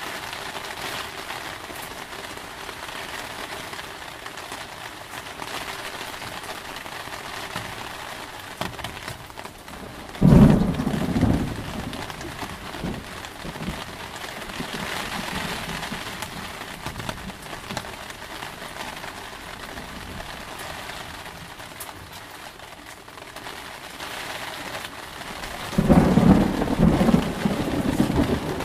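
Steady heavy rain with two claps of thunder. The first comes about a third of the way in and rumbles for a couple of seconds; the second starts near the end and rumbles on.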